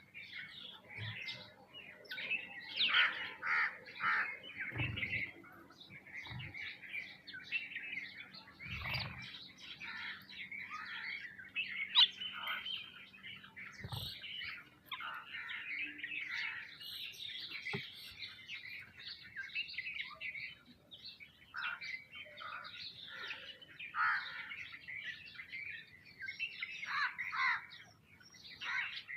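A feeding flock of small birds, sparrows and mynas, chirping constantly in dense, overlapping calls, with a few dull knocks among them.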